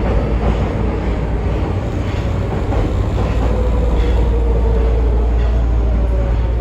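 Nagoya subway Higashiyama Line 5050-series train running, with a rumble, a few wheel knocks and a motor whine that falls slowly in pitch as the train slows.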